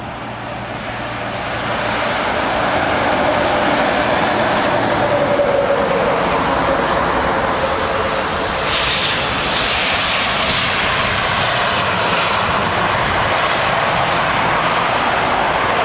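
Jet airliner passing on landing approach: the engine roar swells over the first two seconds and holds, with a whine that drops in pitch about five seconds in as the plane goes by.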